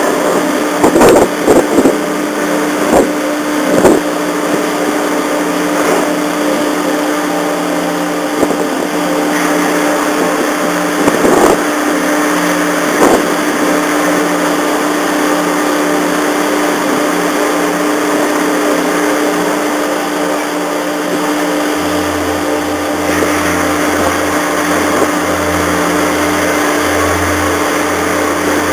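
Steady mechanical hum of a ferry's engines and machinery, with a constant droning tone. Several sharp knocks come in the first half, and a low pulsing drone starts about three-quarters of the way in.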